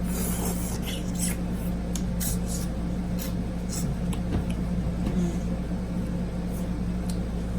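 Chewing and lip-smacking close to the microphone while eating boiled chicken, a scattering of short clicks, over the steady hum of an air conditioner.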